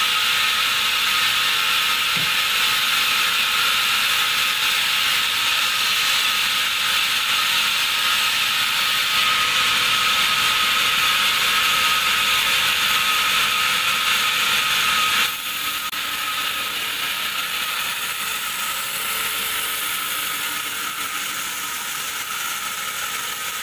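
Sawmill band saw cutting through a large teak log: a steady, high hissing whine. About 15 seconds in the sound drops suddenly and the saw runs on more quietly.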